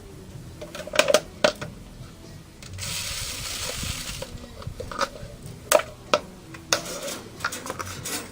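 A scattered series of sharp clicks and light clatters, about nine in all, with a steady hiss lasting about a second and a half just before the middle.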